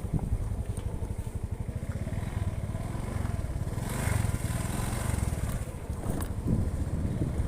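A motor vehicle's engine running steadily while under way, with a rapid low firing pulse, a little louder about four seconds in.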